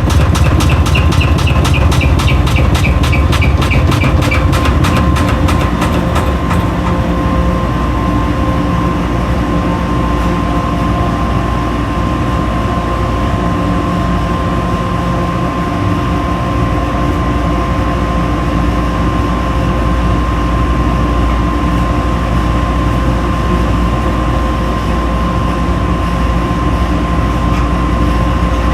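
Washing machine running loud and steady, with a constant motor hum and whine. A rapid, even clicking goes on for about the first six seconds, then stops.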